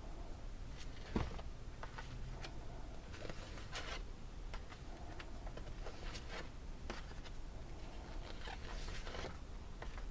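Paper cards and plastic sheets rustling and sliding as they are handled and leafed through, in scattered short rustles, with one light thump about a second in.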